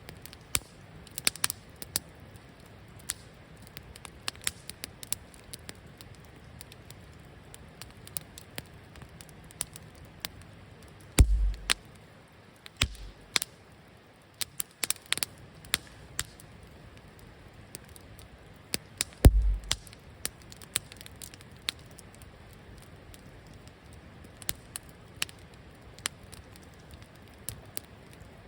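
Wood campfire crackling, with frequent sharp, irregular pops over a soft steady hiss. Two louder low thumps, about eleven seconds in and again about eight seconds later.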